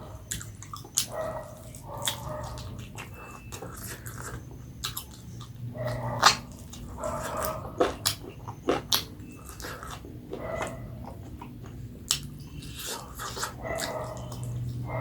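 A person chewing and smacking food close to the microphone, with many sharp wet mouth clicks through the whole stretch.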